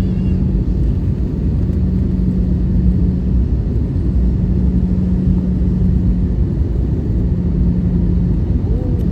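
Steady low roar of an Airbus A320-214's CFM56 engines heard inside the passenger cabin, with a steady hum underneath that drops out briefly a few times.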